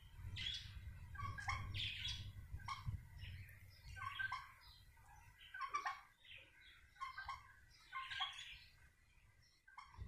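Birds chirping in short clusters of calls that come every second or so, with a low rumble during the first three seconds.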